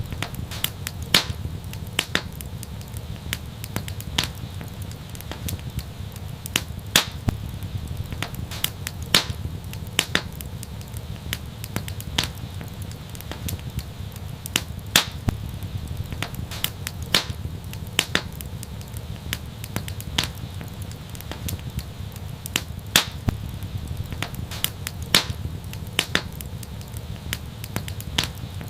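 Wood fire burning steadily, with sharp pops and crackles at irregular intervals, a few each second, over a low steady rumble of the flames.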